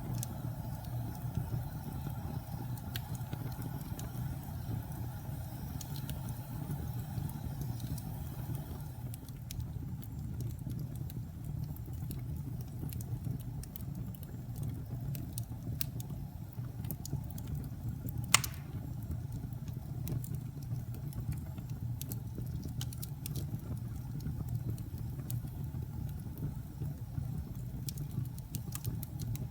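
Wood fire in a fireplace crackling: scattered small pops and clicks over a steady low rumble, with one sharp, louder pop about eighteen seconds in.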